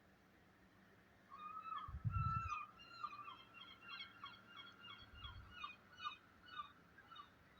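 A bird calling a long series of short, falling notes, about three a second, for some six seconds. Two brief low thumps come under it, the first and loudest about two seconds in.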